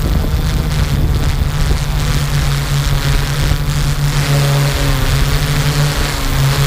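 Camera drone's propellers humming steadily in flight, the pitch shifting slightly about two-thirds of the way through.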